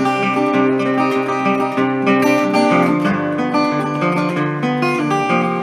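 Instrumental music: strummed acoustic guitar with a bass line, between sung verses of a folk song.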